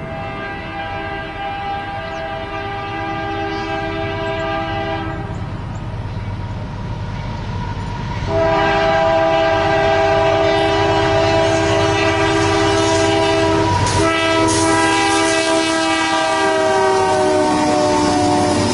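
A freight locomotive's multi-chime air horn sounds a blast of several seconds, then after a pause a louder, longer blast whose pitch falls near the end as the locomotive passes. The low rumble of the train runs underneath.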